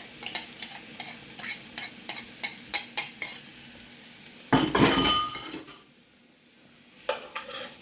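A utensil stirring vegetables in a hot frying pan, clicking against the pan over a faint sizzle. About four and a half seconds in, a loud rush of noise lasts about a second, then it drops low before the clicking starts again.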